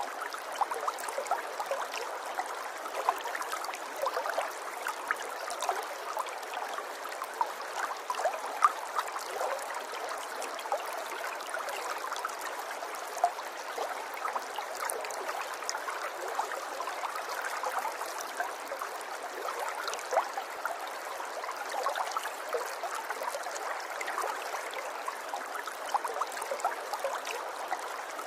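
River water flowing over stones: a steady babbling rush, full of small splashes and gurgles.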